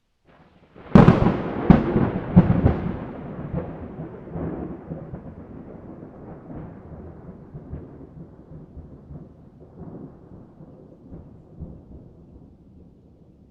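A thunderclap: a sudden sharp crack about a second in, a few more cracks over the next two seconds, then a long rolling rumble that slowly dies away.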